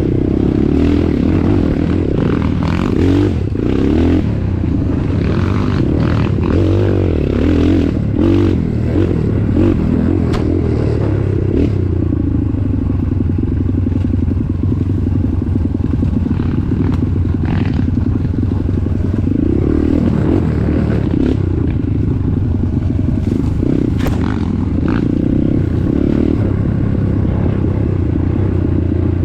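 An off-road vehicle's engine running steadily under load, its pitch rising and falling, with knocks and rattling clatter from the vehicle working over rough ground.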